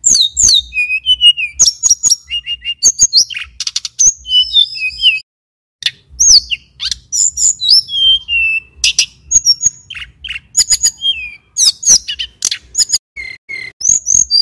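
A male tledekan gunung (sulingan gunung) singing a fast, varied song of high chirps, sliding whistles and short trills, breaking off briefly about five seconds in.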